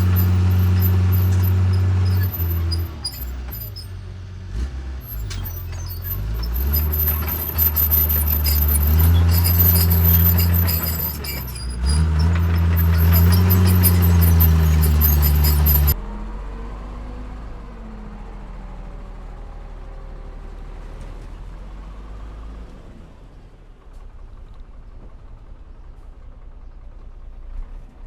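Heavy diesel engine of earth-moving machinery working, its pitch rising and falling with the throttle. About halfway through it cuts off abruptly to a quieter, lower engine running steadily.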